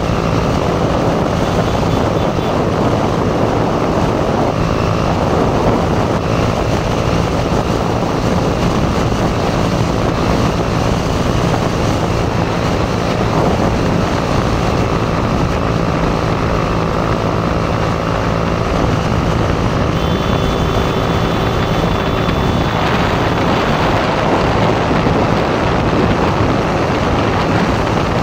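Motorcycle engine running steadily under way, its drone mixed with a continuous rush of wind noise.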